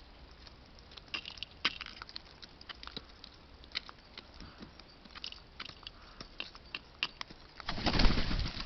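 Birds at a feeding spot: scattered short sharp ticks of beaks pecking at food, then a louder flurry of wingbeats near the end as a bird takes off or lands.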